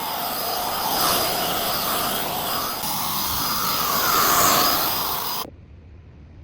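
Loud, steady whooshing machine noise, like a motor or blower running, that cuts off abruptly about five and a half seconds in, leaving a faint low hum.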